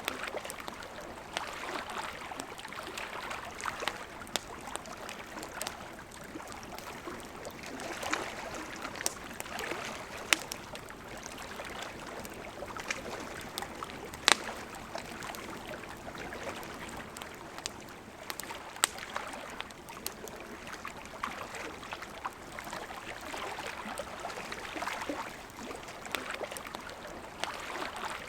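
A river flowing steadily, with the scattered sharp pops and crackles of a campfire over it; a couple of louder pops come near the middle.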